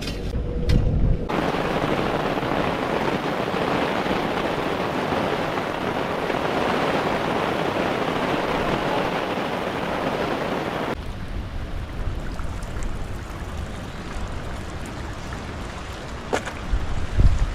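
Heavy rain falling in a steady, dense hiss. About eleven seconds in it cuts abruptly to gusty wind rumbling on the microphone over a fainter hiss of rain.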